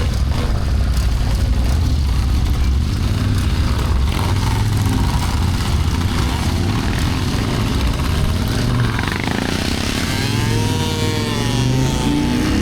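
Motorcycle engine running steadily under way, with wind noise over it. About ten seconds in, a wavering pitched tone comes in over the engine.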